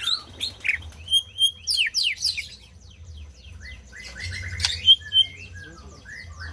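White-rumped shama singing: loud, varied whistled phrases of sweeping and quickly repeated notes, easing into a softer run of quick falling notes, then another loud burst of rapid notes a little past the middle.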